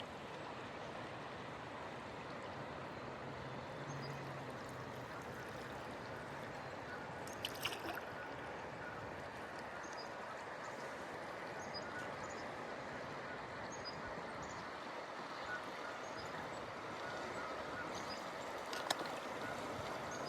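Steady rushing of river water around a drifting kayak, with a couple of sharp knocks, one about seven seconds in and one near the end.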